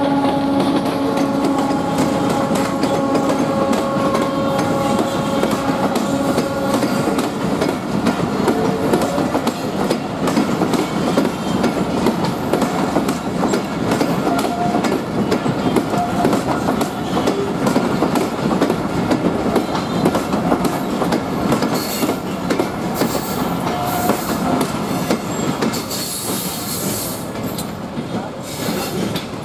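Diesel-hauled passenger train passing close by. For the first several seconds the locomotive's engine drones with a steady hum. Then the coaches roll past with a continuous rattle and clatter of wheels on the rails, and with brief wheel squeals.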